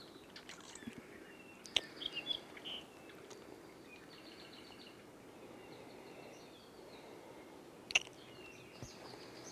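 Faint birdsong in forest: scattered short chirps and quick trilled runs of high notes over a low background hiss. There is a sharp click about two seconds in and a louder one near the end.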